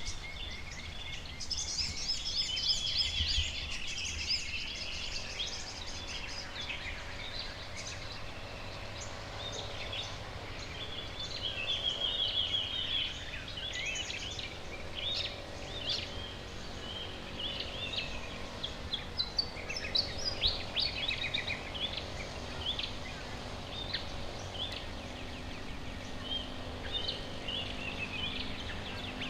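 Several wild birds calling at once in a garden: a busy mix of short chirps, chips and fast trills, some overlapping, over a low steady background rumble. A faint steady low hum comes in near the end.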